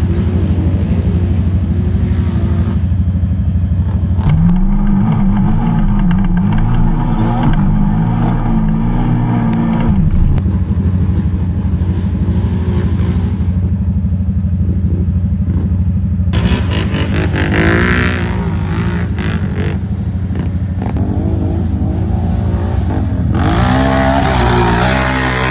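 Off-road vehicle engine running and revving, its pitch rising and falling repeatedly over several short shots.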